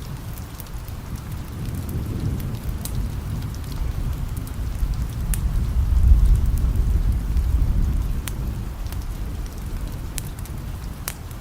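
Steady rain with scattered sharp drop ticks, and a long, low roll of distant thunder that builds to a peak about halfway through, then slowly fades.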